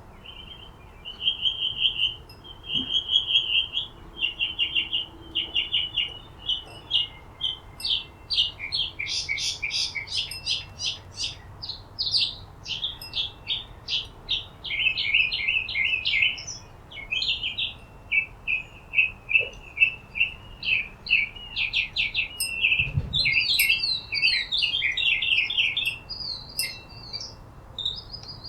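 Several birds chirping and twittering in a dense chorus of quick, high, overlapping notes, growing busier after the first few seconds.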